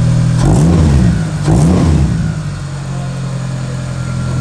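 Car engine idling through a newly fitted cat-back exhaust and new air intake, revved in two quick blips about half a second and a second and a half in, then settling back to a steady idle.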